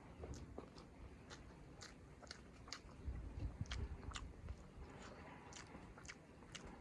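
Close-miked chewing and biting of chicken curry with rice, with frequent small wet mouth clicks, a few a second. A low rumble swells briefly about three seconds in.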